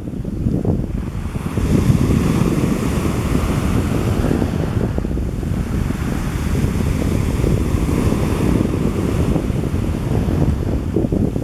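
Wind buffeting the microphone over the wash of sea waves, the hiss of the water swelling up twice.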